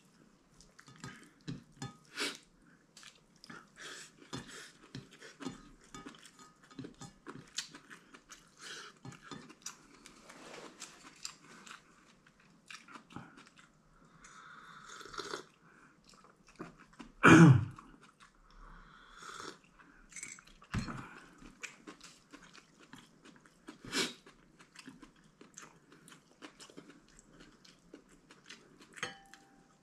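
A person chewing and crunching food close to the microphone, with small irregular clicks and crunches throughout. One much louder sound comes about seventeen seconds in.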